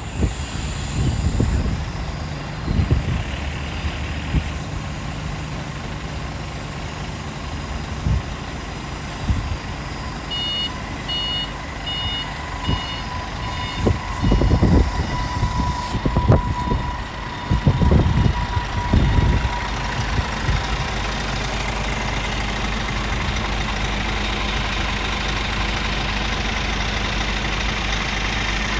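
Scania truck's diesel engine running with uneven low surges and knocks, then settling into a steady idle about two thirds of the way in. About a third of the way in, a short series of six high beeps sounds.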